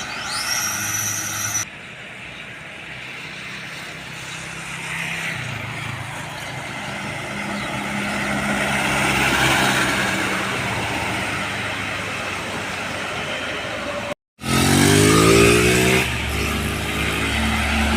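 Road traffic: vehicles passing by with a steady engine and tyre noise. A short rising whine comes in the first second, and near the end a diesel engine rises in pitch as a vehicle pulls away.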